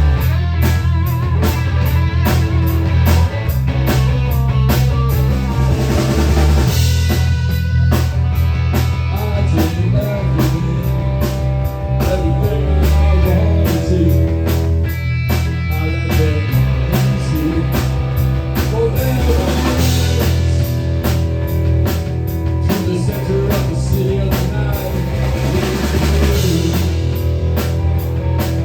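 Rock music with a steady drum kit beat, bass and electric guitar.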